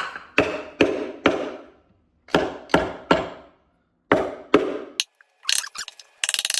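Hammer blows striking a wooden concrete form board to knock it loose: about nine sharp strikes in three quick groups, each with a short ring. Near the end comes a fast rattle of clicks.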